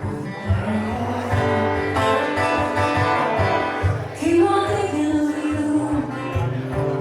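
Live music from a guitar-and-vocal duo: guitar playing a passage with notes that slide and bend in pitch.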